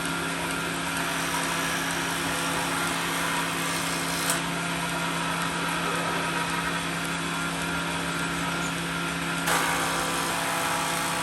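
A motor running steadily with a constant hum, with a brief knock about four seconds in and another about nine and a half seconds in.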